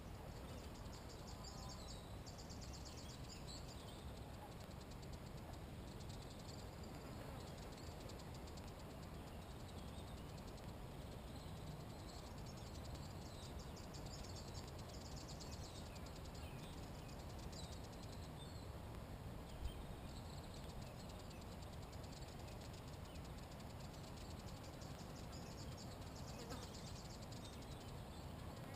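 Faint songbirds calling over a steady low background rumble: a high, fast trill comes three times, about every twelve seconds, with scattered short chirps between. One short knock about twenty seconds in.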